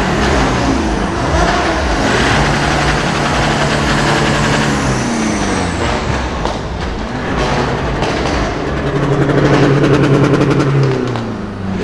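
Modified car engines revving, pitch sweeping up and down, then held at a steady high rev twice for a few seconds each, with a run of sharp crackles around the middle.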